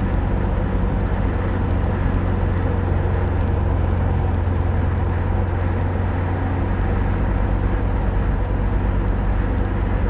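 Van's RV-10 light aircraft's piston engine and propeller droning steadily in flight on a descending approach, heard from inside the cockpit.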